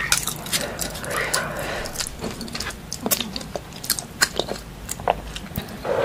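People chewing food with open-mouthed mukbang eating, full of sharp wet clicks and smacks.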